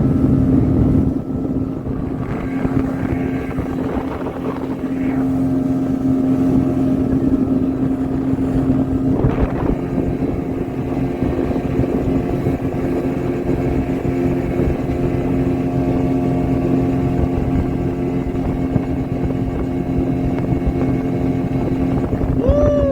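Speedboat engine running steadily under way, a constant hum over the rush of the ride. Near the end a wavering tone rises over it.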